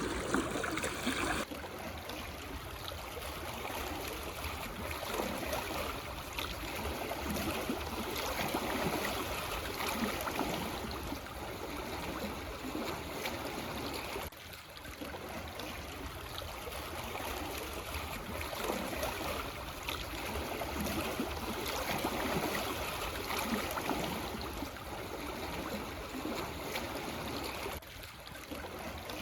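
Calm sea waves lapping and washing over black stones on a shore: a continuous wash of water that swells and eases every few seconds.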